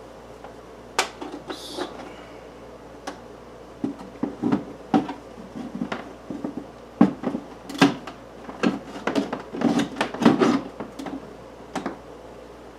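Plastic hand dryer housing knocking and scraping against its metal wall mounting plate as it is hooked on: a run of irregular clicks and knocks, thickest in the second half, with a brief hiss about a second and a half in.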